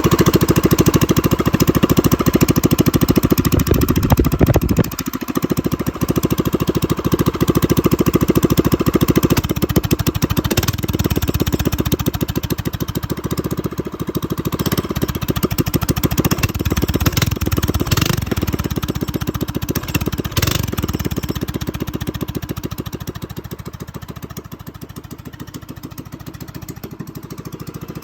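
Small engine of a drift trike running loud through an open exhaust, idling with several short revs. The sound grows quieter over the last few seconds.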